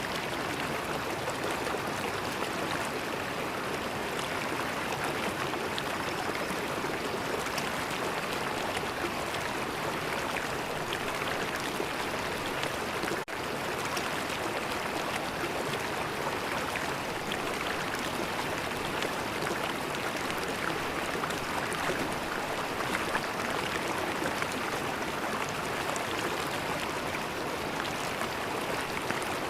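River water flowing steadily, an even, continuous rush with a momentary dip about thirteen seconds in.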